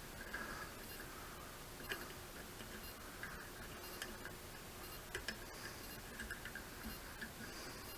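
Faint, irregular metallic ticks and clicks of a tap being turned into a drilled hole to cut threads. The tap is dull and cuts poorly.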